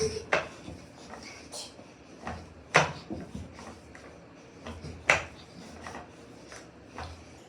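Thumps and knocks of a person doing sapate (burpee-style) reps on the floor: a sharp thump about every two and a half seconds, with lighter knocks between.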